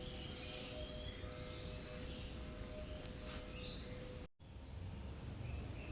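Outdoor ambience: short high chirps over a steady low hum and rumble, with no meowing. The sound drops out completely for a moment about four seconds in.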